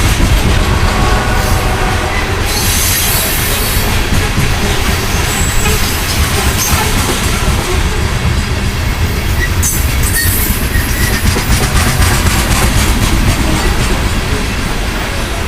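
Loaded coal train rolling past close by: a loud, steady rumble of steel wheels on rail, with high-pitched noise rising over it twice, once a few seconds in and once about two-thirds of the way through.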